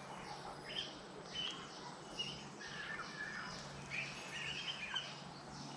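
Quiet background with small birds chirping now and then over a faint steady noise.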